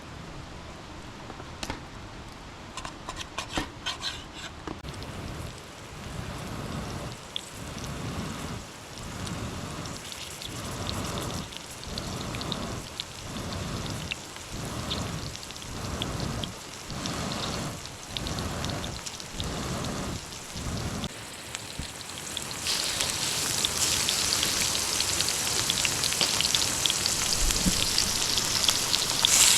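Heavy rain falling steadily. Through the middle a regular stroke-like sound repeats about once a second for some fifteen seconds, and near the end the rain's hiss grows louder and brighter.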